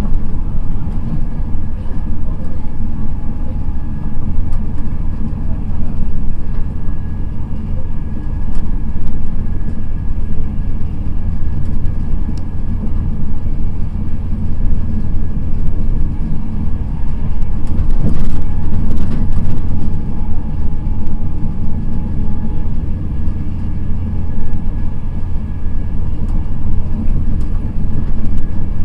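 Steady low rumble of an express passenger train running at speed, heard from inside the coach: wheels on rail and the carriage's body noise. A brief clatter comes about two-thirds of the way through.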